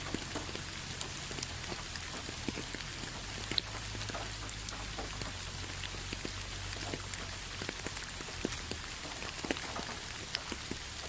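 Rain falling steadily: an even hiss with many scattered individual drops ticking, close by.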